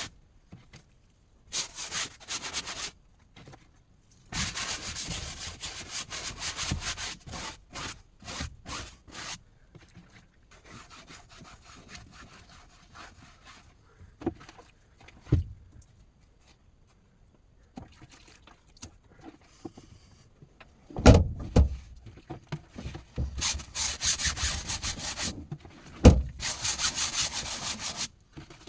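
Rubbing and scraping on wood in bursts of quick strokes, with a few sharp, heavy thumps, the loudest ones late on.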